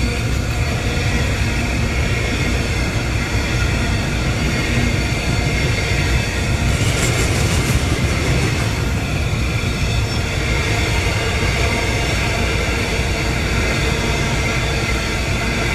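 Train rolling past, a steady heavy rumble of wheels on the rails, with a brief sharper, higher rail noise about seven seconds in.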